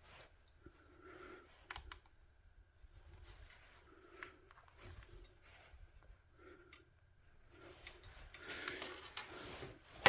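Faint scattered clicks and light taps of small-object handling at a workbench, irregular and spread through the whole stretch, a little busier near the end.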